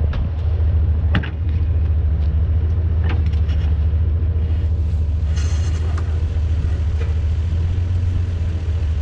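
A motor vehicle's engine running steadily with a low, even rumble, with a few light clicks and a brief hiss about halfway through.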